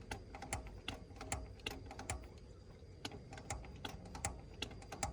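Hand priming pump on a Mitsubishi 4D32 diesel's fuel injection pump being worked to bleed air from the fuel system: faint rapid plastic-and-metal clicks, about four a second.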